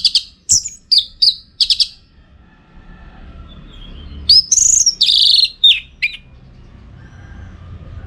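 Orange-headed thrush singing loud, sharp phrases: a quick run of notes in the first two seconds, then after a pause a longer phrase about four seconds in.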